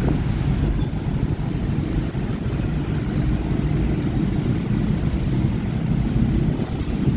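Dense rush-hour street traffic, mostly motorbikes, streaming past with engines running in a steady rumble.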